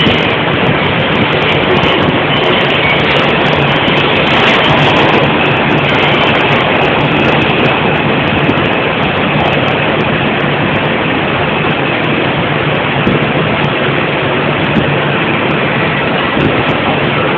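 New York City subway train, an R142 car, running between stations, heard from inside the car: a loud, steady rumble and rattle of wheels on the track, with a faint high whine over it.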